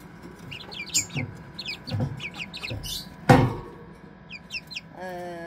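Month-old chicks, serama bantams and pheasant-chicken crosses, peeping: a quick run of short, high cheeps that slide downward in pitch. A single loud knock comes about three seconds in.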